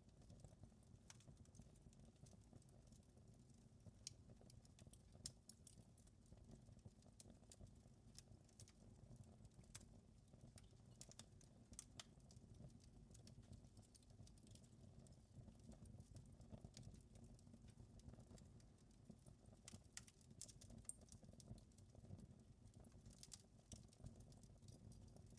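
Faint wood fire crackling, with irregular small sharp pops and snaps over a low steady rumble.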